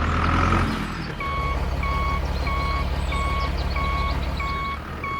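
Vehicle reversing alarm beeping evenly, about one and a half beeps a second starting about a second in, over the low drone of a running engine.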